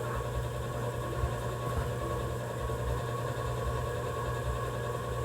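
A small engine running steadily at an even idle-like pace, with a constant low hum and no changes in speed.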